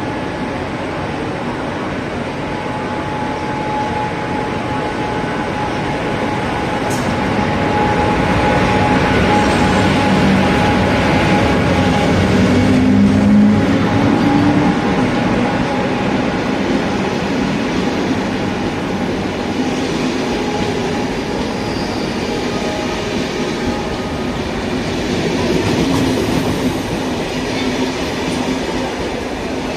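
MÁV class V63 (630) electric locomotive hauling an intercity train along the platform. There is a steady whine, loudest as the locomotive passes about 13 seconds in, and then the coaches roll past.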